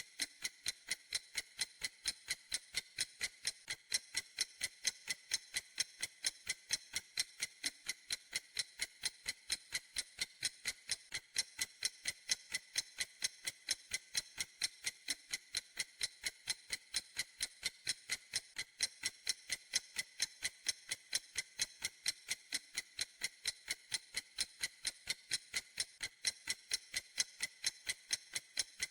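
Clock ticking steadily: sharp, even, high-pitched ticks, several a second, in an unbroken rhythm.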